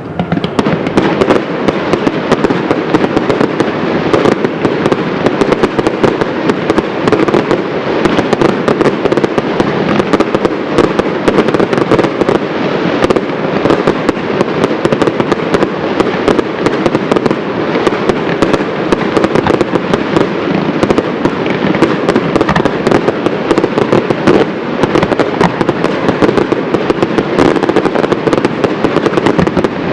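Fireworks display: a dense, continuous barrage of bangs and crackling shells, loud throughout.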